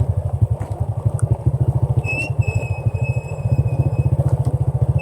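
Honda Dream underbone motorbike's single-cylinder four-stroke engine running at low, even revs as the bike crawls over a rough gravel track. A thin, steady high-pitched whine joins in about two seconds in and stops a couple of seconds later.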